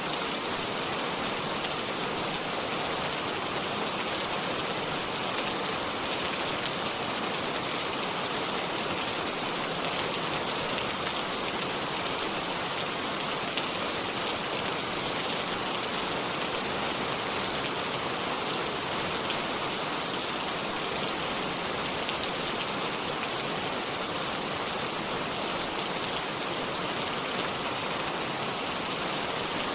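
Steady rainfall with close patter of raindrops on surfaces and leaves, even and unbroken, with no thunder.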